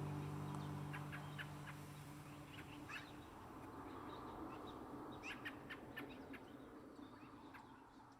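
The last strummed acoustic-guitar chord of a song dying away over the first few seconds, while birds chirp repeatedly in the background. All of it fades out near the end.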